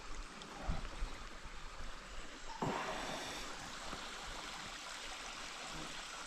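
Mountain stream running over rocks, a steady rushing trickle that gets louder about two and a half seconds in.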